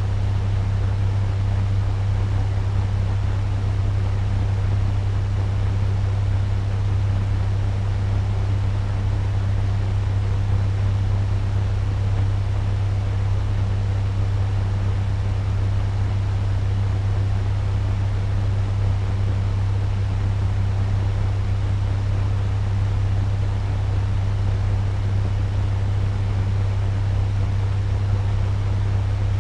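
Turbo fan running steadily at medium speed: an even rush of moving air over a strong low hum.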